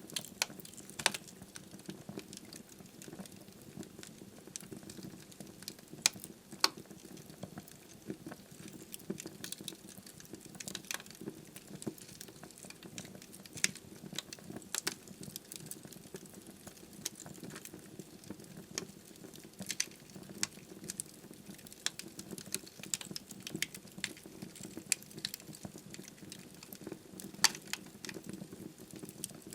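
Wood fire burning in a fireplace: irregular sharp crackles and pops from the logs over a steady low hiss of flame.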